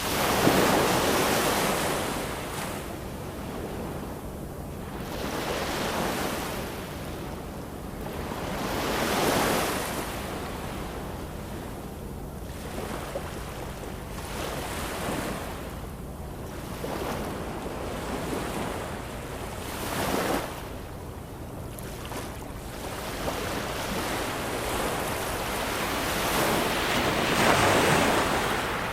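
Ocean waves breaking, surging in and easing back every few seconds in a steady wash of surf; the biggest surges come right at the start and near the end.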